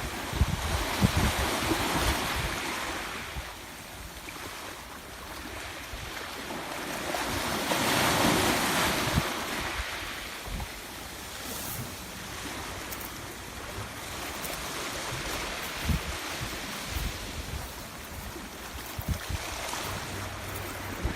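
Waves of a rough sea breaking, with two bigger surges about two and eight seconds in, and wind buffeting the microphone.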